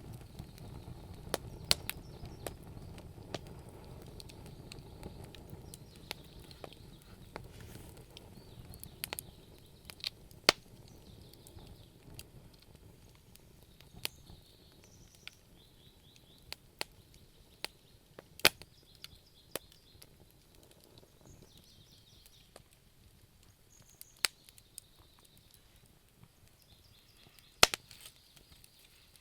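Wood fire in a fireplace crackling, with sharp pops every second or two; a low rush of flame in the first few seconds fades away.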